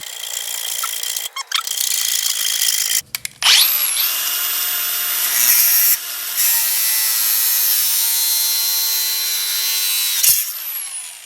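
Power cutting tool cutting through a rust-seized fastener on a Type 4 VW engine. It runs in short spells at first, then spins up with a rising whine about three and a half seconds in, runs steadily under load, and winds down near the end.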